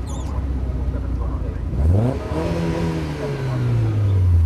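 Mazda MX-5 race car's four-cylinder engine running at low revs, then revved sharply about two seconds in, its pitch rising quickly and then falling slowly back down over the next two seconds.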